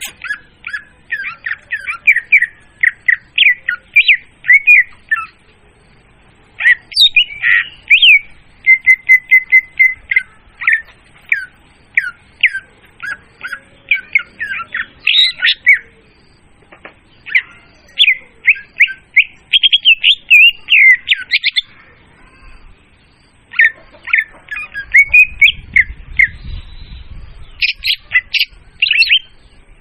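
Leafbird (murai daun) song used as a bird-trapping lure call: long, loud phrases of rapid high chirps and squeaky notes, broken by short pauses three times. A low rumble runs under the song near the end.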